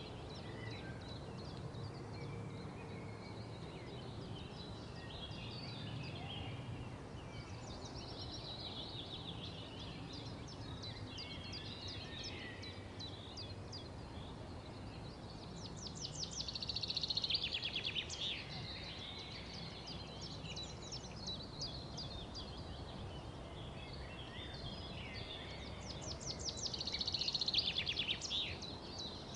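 Birds chirping and singing over a steady low background hum, with two louder spells of rapid trilling, one about halfway through and one near the end.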